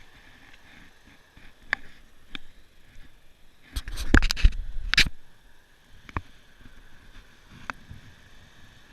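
Handling noise: scattered sharp clicks and knocks, with a loud, dense cluster of knocks and scrapes about four to five seconds in. A faint steady high hum runs underneath.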